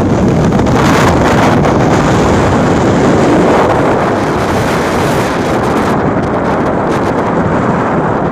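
Strong mountain wind buffeting the microphone: a loud, continuous rushing roar that eases slightly after about six seconds.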